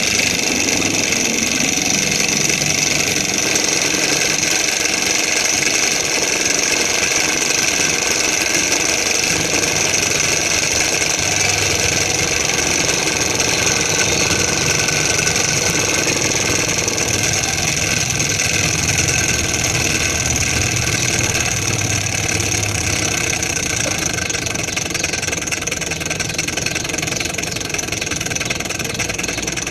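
Small model Stirling engine running steadily, a continuous mechanical sound that eases slightly near the end.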